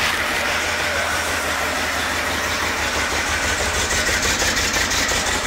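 Chevrolet Performance 350 H.O. small-block V8 idling steadily.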